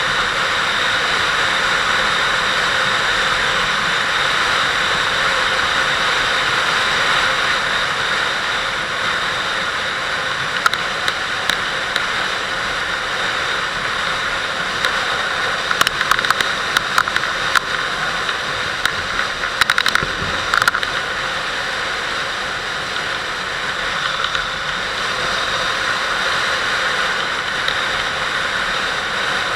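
Steady rush of wind over the microphone of a Kawasaki Vulcan 800 motorcycle under way, its engine running beneath the wind. A scatter of sharp clicks and knocks comes in the middle stretch.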